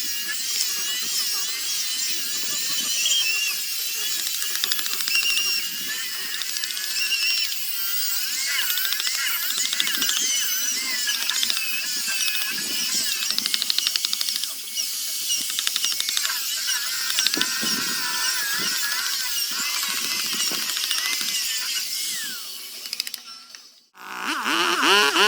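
A handheld power tool working wood, running with a high-pitched whine whose pitch wavers up and down as it bites and eases off. It stops almost completely a little before the end.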